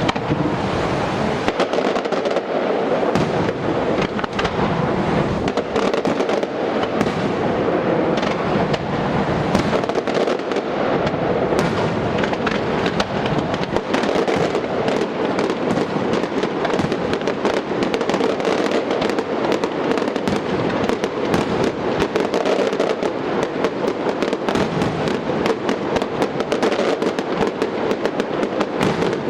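Fireworks display: a dense, continuous barrage of rapid crackling and popping bursts.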